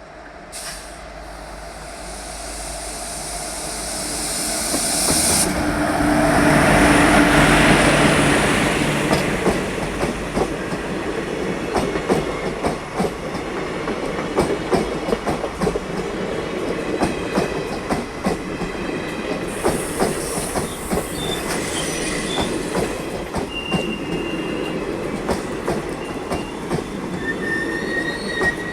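Indian Railways passenger train approaching and rushing past close by. The sound swells to its loudest about seven seconds in as the locomotive passes, then the coaches' wheels clatter steadily over the rail joints, with a few brief high wheel squeals near the end.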